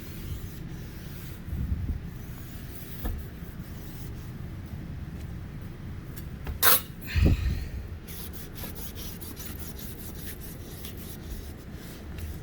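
Rubbing and handling noises from cleaning work, with a few soft knocks and a sharper, louder bump about seven seconds in.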